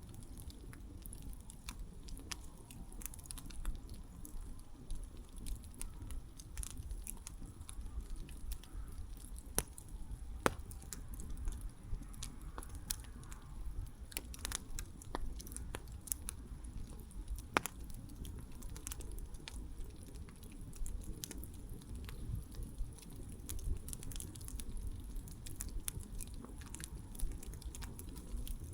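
Wood campfire burning, crackling with frequent sharp pops, a few of them louder, over a low steady rumble.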